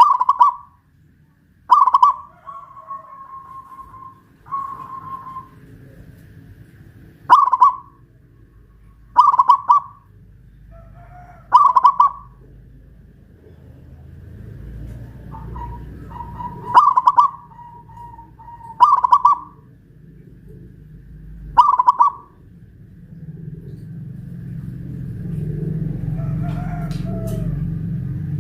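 Zebra dove (perkutut) singing its cooing song, loud short phrases repeated about every two seconds, some trailing off into a held note. A low rumble builds in the background over the last few seconds.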